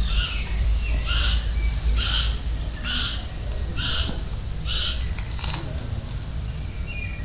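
A bird giving a harsh, scratchy call over and over, seven times at about one call a second.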